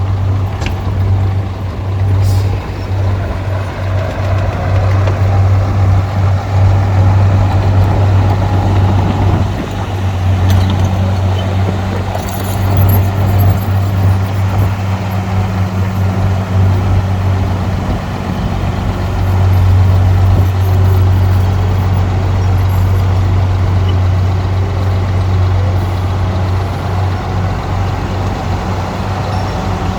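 Heavy diesel machinery engine running with a steady low drone. Its loudness swells and eases a little over the stretch.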